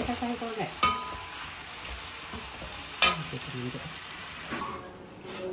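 Kemiding fern stir-frying in a hot pan with a steady sizzle. A metal spatula scrapes and knocks against the pan twice, sharply, about a second in and about three seconds in. The sizzle dies down near the end.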